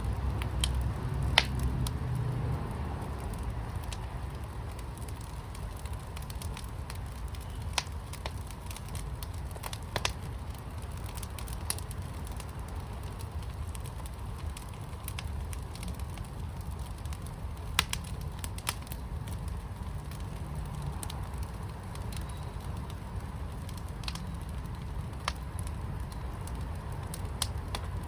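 Fire burning in a fire pit, crackling with sharp pops at irregular intervals over a steady low rumble.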